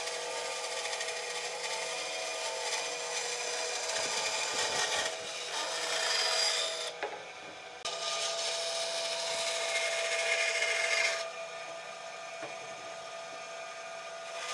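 An electric power tool running against wood, a steady motor hum under a rasping, rubbing noise. The noise comes in passes that swell and ease, dropping off briefly about seven seconds in.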